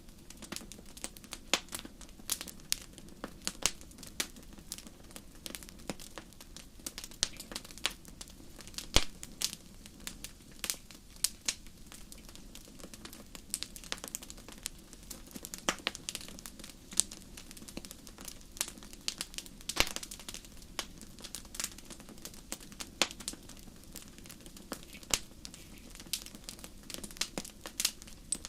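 Wood fire burning in a fireplace: irregular sharp crackles and pops, some loud, over a steady low rush of flame.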